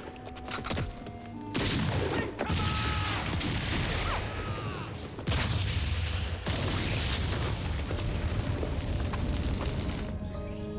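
Artillery bombardment: a series of heavy explosions about a second or a few seconds apart, each with a long rumbling decay, over background film music.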